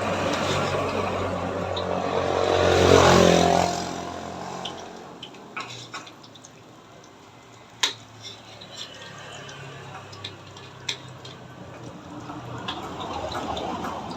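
Water running and splashing, loudest about three seconds in, then fading to trickling and dripping with a few sharp clicks.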